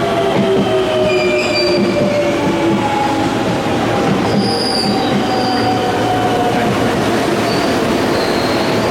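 Electric commuter train running through the station, loud and steady. Its motor whine falls slowly in pitch as it slows, with short high wheel squeals about halfway through and near the end.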